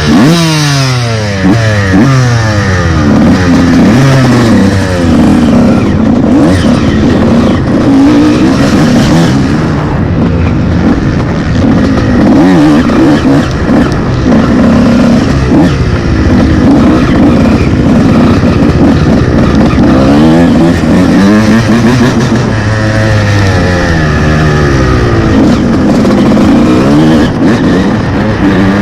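Loud 125cc motocross bike engine revving, its pitch climbing and dropping again and again as the rider accelerates, shifts and backs off around the track.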